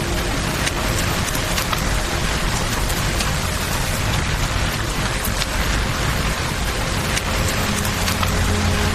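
Steady rain falling, an even hiss scattered with small sharp ticks, blended with campfire and river ambience. A faint low hum grows louder near the end.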